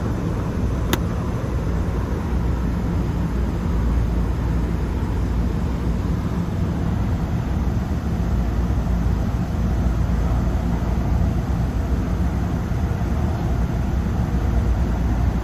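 Lennox rooftop unit running steadily in first-stage cooling, its condenser fans and compressor making a low, even rumble. There is one sharp click about a second in.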